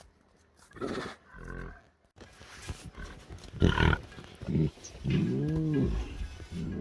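Tigers growling: a few short rough growls, a louder one partway through, then a longer moaning call about five seconds in that rises and falls in pitch.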